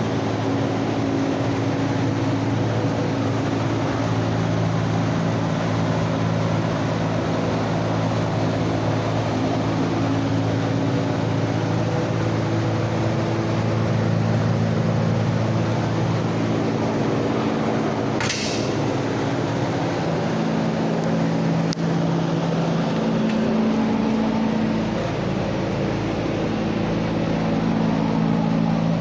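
1966 Ford Mustang's engine idling steadily, a low even hum whose pitch wanders slightly. A single short sharp click sounds partway through.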